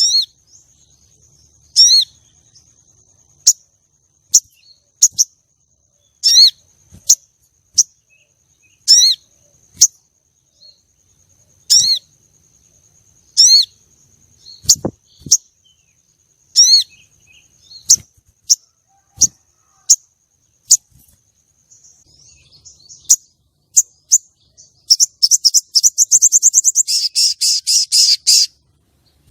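Female sogon sunbird calling: short, sharp, high chirps about once a second, then a fast, loud trill lasting about three seconds near the end. The calls sound over a faint, steady, high-pitched tone.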